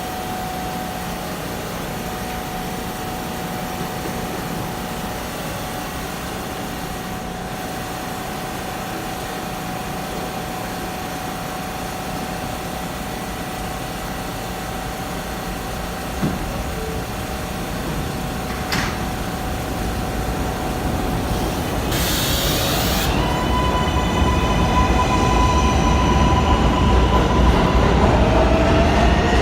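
New York subway train sounds: a steady hum with a held tone for about twenty seconds, then growing louder. A short hiss of air comes about two thirds of the way in, followed by several high whining tones as a train moves.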